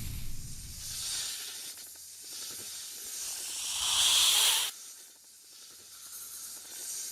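A hissing noise that swells to its loudest about four seconds in, then cuts off suddenly, leaving a fainter hiss.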